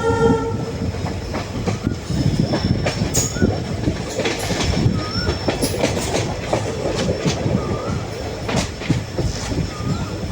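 Express train running at speed, its wheels clattering irregularly over rail joints and points above a steady rumble. The tail of a locomotive horn blast sounds in the first half second.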